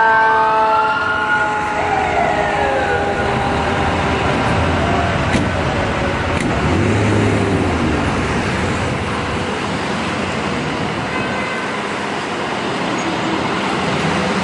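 Fire truck sirens gliding up and down, several at once, fading out within the first few seconds. Steady road traffic and engine noise follows.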